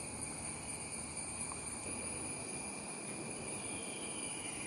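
A steady chorus of insects: several thin, unbroken high tones over an even hiss, with no change in level.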